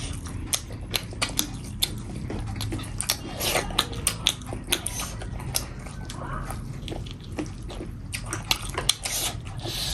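Close-up eating sounds of people chewing a meal of dhido and curry: irregular wet smacks and sharp little clicks, several a second at times.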